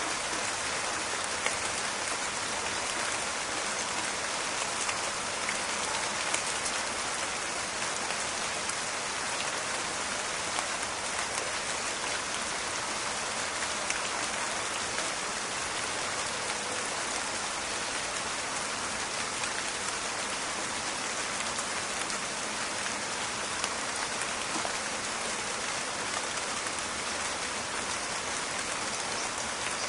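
Steady rain falling in a forest, a dense even hiss with scattered crackling drop ticks.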